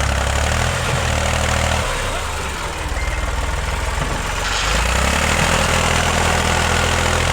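Eicher 485 tractor's diesel engine running, its low note easing off about two seconds in and picking up again around the middle.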